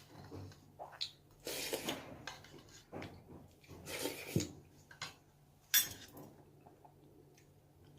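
Eating utensils clinking and scraping against bowls and dishes during a meal: a run of short taps and scrapes, the sharpest click nearly six seconds in.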